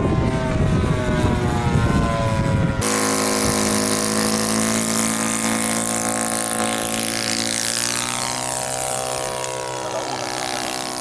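Radio-controlled model airplane engine running at a steady drone, with wind buffeting the microphone. About three seconds in the sound cuts abruptly to a cleaner, steadier engine note whose pitch slides down past the middle and slowly fades as the plane passes and draws away.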